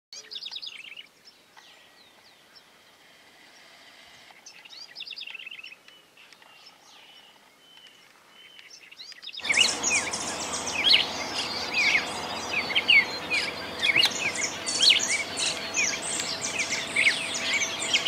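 Wild birds singing and calling. For the first nine seconds or so there are faint, scattered trills. About halfway through, a much louder, dense chorus of many short chirps and rising notes sets in.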